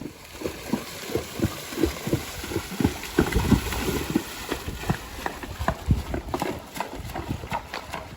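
Hoofbeats of a spotted saddle horse moving at a steady gait: a run of quick, repeated hoof strikes, about three a second.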